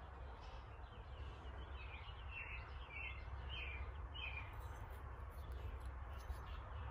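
Faint outdoor ambience with a bird calling: a run of about five short, evenly spaced chirps in the middle, over a low steady background hum.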